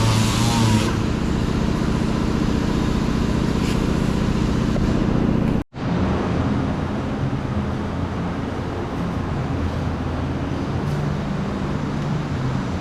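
A steady low mechanical hum, machine or engine-like, that cuts out completely for an instant about halfway through and then carries on.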